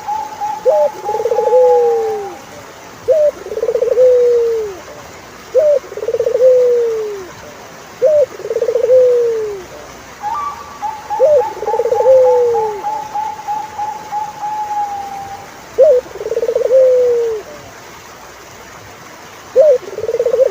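Turtle dove cooing over and over, each call a short rising note then a longer rolling coo that falls away, about every two and a half seconds. A higher, rapid trill of quick notes runs under it at the start and again for several seconds midway.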